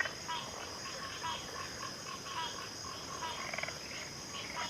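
Backwater chorus of frogs calling, many short repeated calls with a brief pulsed trill about three and a half seconds in, over a steady high-pitched insect drone.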